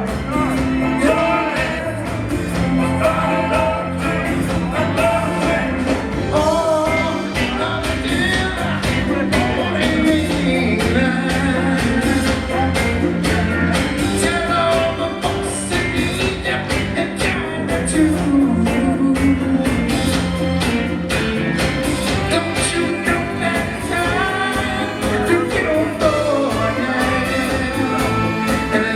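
Live disco-soul band playing, with lead and backing vocals singing over a steady beat and bass line.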